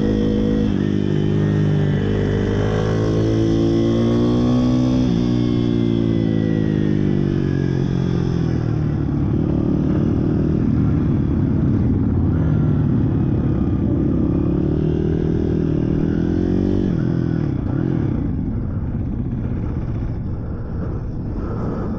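Small single-cylinder pit bike engines running hard, the pitch rising and falling repeatedly as the throttle opens and the gears change in the first few seconds. After that comes a denser, rougher engine sound that eases off slightly near the end.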